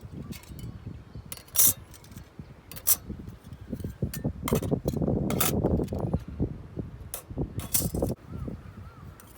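Small metal camping gear clinking and knocking as it is handled, with about half a dozen sharp clinks over rustling, busiest in the middle.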